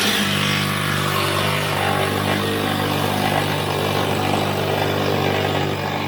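A motor-driven machine kicks on abruptly and runs steadily, with a constant low hum under a loud rushing noise.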